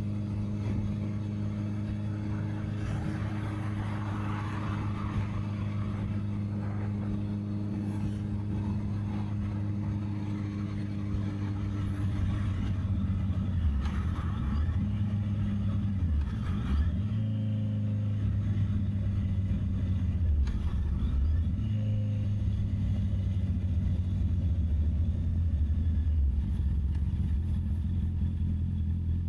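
Honda CB650R's inline-four engine running under way, with a steady note that dips and picks up again several times in the second half as the revs change. Wind rushes over the microphone.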